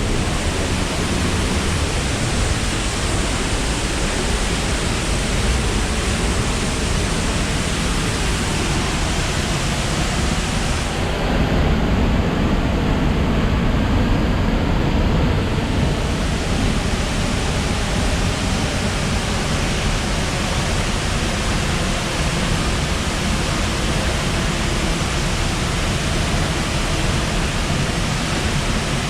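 Ozone Falls, a 110 ft waterfall running high, pouring into its plunge pool: a loud, steady rush of falling water.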